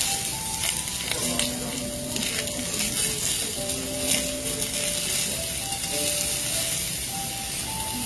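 Beef and vegetables sizzling steadily in a hot pan, with metal tongs clicking against the pan now and then as the pieces are turned. Soft background music with held notes plays along.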